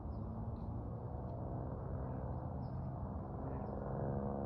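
Steady low rumble with a droning hum that grows a little stronger from about halfway through, and a few faint high chirps.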